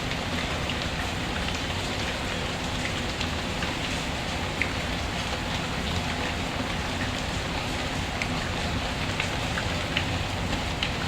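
Steady rain falling, mixed with the scattered small crackles and pops of a wood fire burning in a fireplace.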